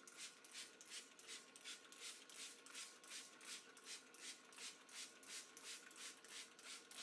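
Hand spray bottle pumped over and over, misting disinfectant liquid in short hissing puffs at about three a second.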